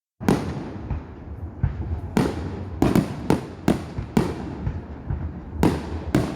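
Fireworks going off: a string of about nine sharp bangs at uneven intervals, some in quick succession, each trailing off, over a steady low rumble.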